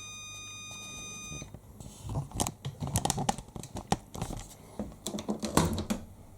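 Hoover SIX Inter@ct washing machine's electronic signal tone, held steady and cutting off about a second and a half in: the end-of-cycle signal after the final spin. It is followed by a quick run of sharp clicks and knocks.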